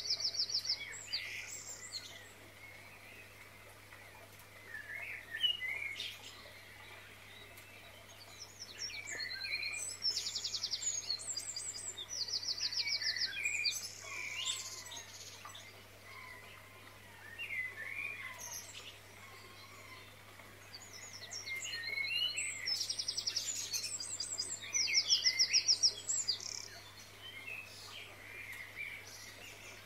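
Songbirds chirping and calling, with bursts of fast high trills that come back about every twelve seconds.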